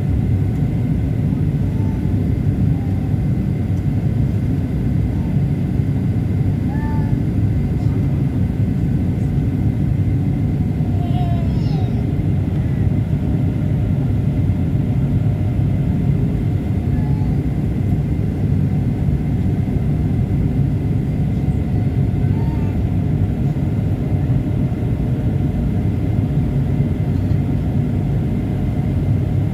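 Steady low rumble of an airliner's engines and airflow heard inside the cabin on the approach to landing, with faint steady high tones riding over it.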